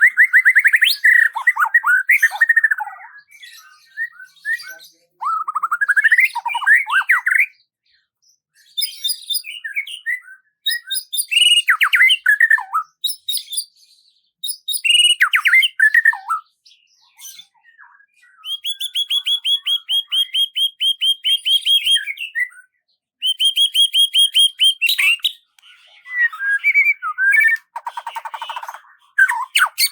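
Songbird song: bright phrases of quick chirps and sweeping notes with short pauses between them, and near the end two fast trills of rapidly repeated notes, each held for a couple of seconds.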